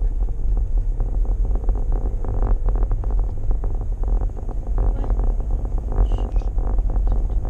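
Steady low rumble of road noise inside a moving car, with rapid irregular crackling over it.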